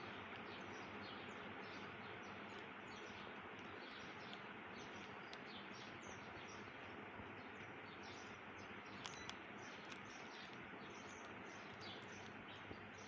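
Faint, steady background hiss with many short, high bird chirps throughout, and a few small clicks about nine seconds in.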